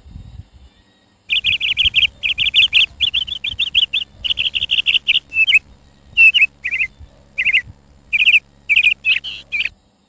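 A small bird chirping in quick runs of high, trilled notes with short pauses between them. It starts about a second in and stops just before the end.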